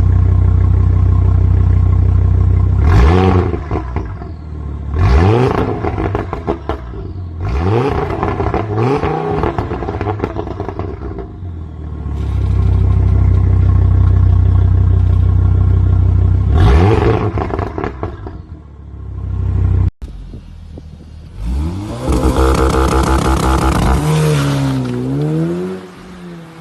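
Car engine idling and blipped about five times, each rev falling back into a crackle of pops and bangs from the exhaust on the overrun. After an abrupt cut, a longer rev climbs, holds, then drops and wavers.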